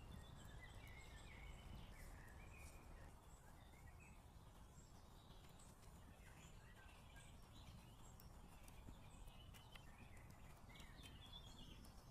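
Quiet woodland ambience with faint, scattered bird chirps.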